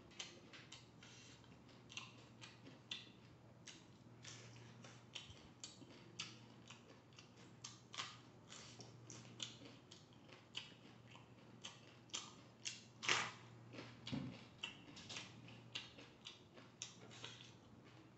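Close-up chewing of raw vegetables: many short, irregular crisp crunches with the mouth closed, one louder crunch about three-quarters of the way through.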